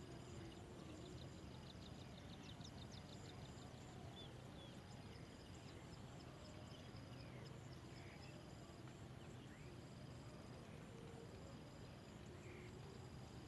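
Faint outdoor ambience: insects trilling in short, steady high stretches, with a quick run of high ticks about a second in and scattered faint bird chirps over a low hum.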